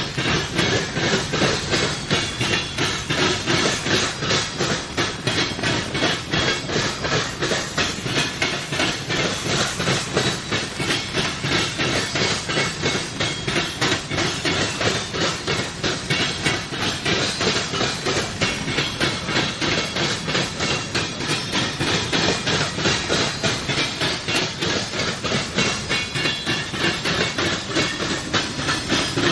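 Empty grain hopper cars of a freight train rolling past, their wheels clicking on the rails in a steady, even rhythm over a constant hiss of wheel-on-rail noise.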